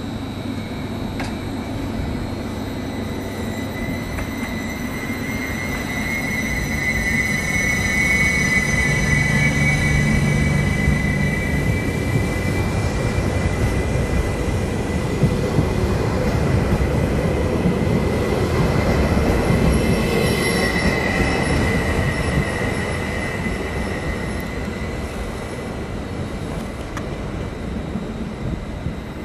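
A train passing, with a high steady squeal of its wheels on the rails in two spells: the first runs for several seconds early in the pass, the second is shorter, about two-thirds through. The running noise swells and then fades as it goes by.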